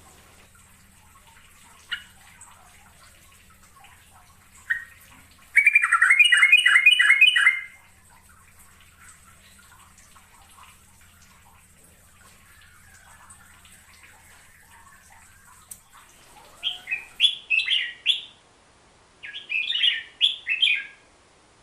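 A bulbul (merbah jambul) singing in short bursts of quick, chattering notes: one loud phrase about six seconds in and two more near the end, with fainter scattered calls between. A faint steady hum lies under the first part.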